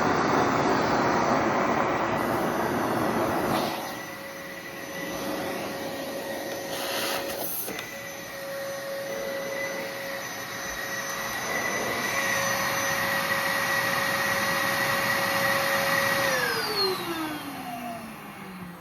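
Bissell Heavy Duty (93Z6) bagless upright vacuum running with a steady motor whine; the sound drops in level about four seconds in. Near the end the motor winds down, its whine falling in pitch as it slows.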